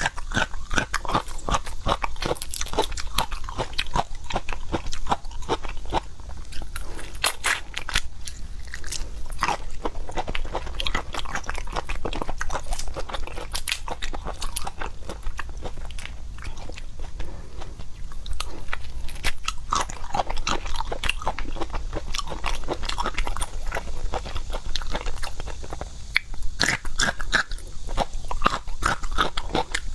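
Close-miked eating of seafood: continuous wet chewing with many small crunching bites, in quick, irregular clicks.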